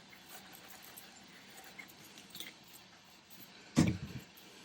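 Faint rustling and small clicks of paper and craft pieces being handled while gluing, then a single dull knock near the end.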